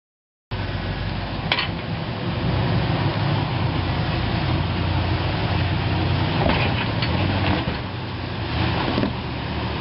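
Off-road vehicle engine running steadily at low revs, with a few sharp knocks and clunks over it.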